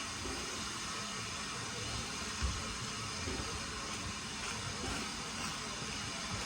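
Steady hiss and low rumble of a steam train, with a soft knock about two and a half seconds in.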